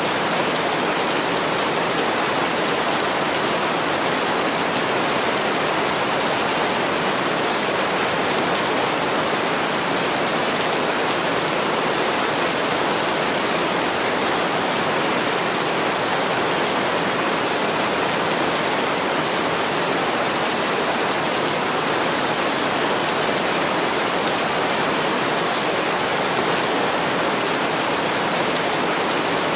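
Heavy rain pouring steadily on a window, a dense, even hiss that does not change.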